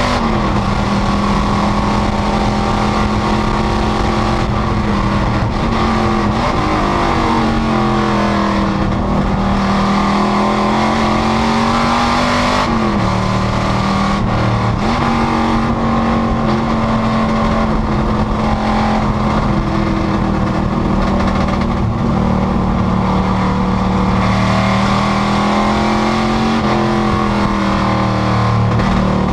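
Panoz GTS race car's V8 running hard at race pace, its pitch climbing and then changing abruptly several times as the car shifts gears.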